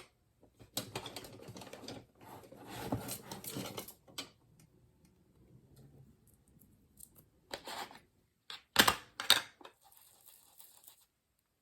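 Rustling and tapping from craft supplies being handled on a tabletop as a used sponge is swapped for a clean one on an ink blending tool, with a few sharp clicks about nine seconds in.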